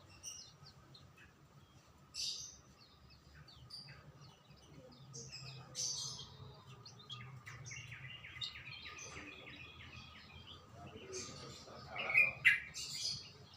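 Songbirds chirping in short high calls. A quick run of repeated notes comes a little past halfway, and the sharpest, loudest calls come near the end.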